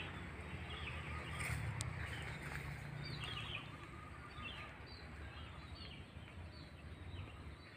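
Small birds chirping repeatedly in short, high, falling notes over a faint low rumble of outdoor background noise.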